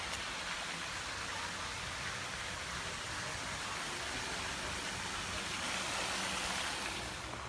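Splash park water jets spraying in a steady hiss.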